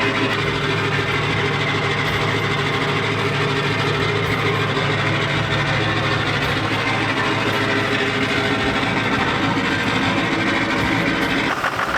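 Chevrolet Duramax V8 turbodiesel pickup engine running steadily, its tone shifting slightly near the end.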